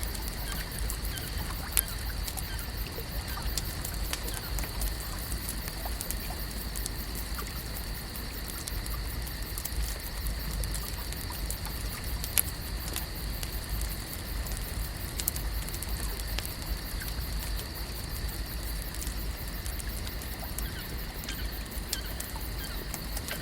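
Lake ambience: water pattering and trickling with many small scattered clicks, over a steady high-pitched hum and a low rumble.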